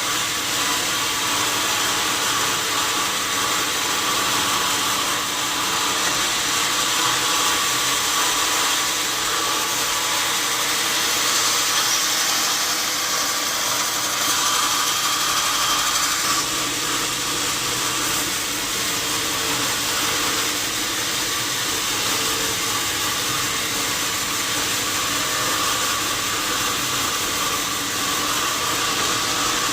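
Sawmill saw running steadily as the log is cut, a continuous machine hiss with a faint hum beneath; the high hiss grows a little stronger for a few seconds midway.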